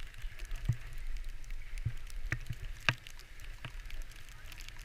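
Skis sliding over snow with wind rumbling on the microphone, and a few sharp knocks, the loudest about three seconds in.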